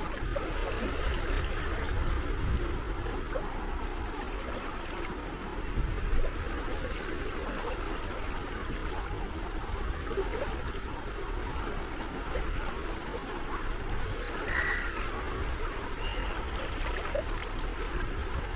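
Small sea waves lapping and washing at the shore in a steady wash of water noise, over a constant low rumble. A short bird call sounds once about fifteen seconds in.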